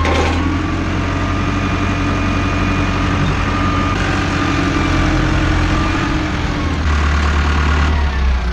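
Tractor diesel engine running steadily, with a steady machine whine over it; the engine note gets heavier about seven seconds in.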